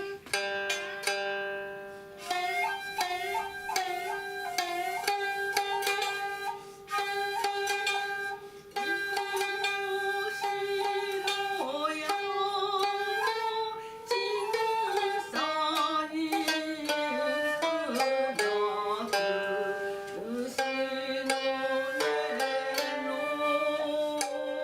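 Japanese traditional ensemble music: a koto plucked in quick notes while a shakuhachi plays long held notes that slide and bend in pitch.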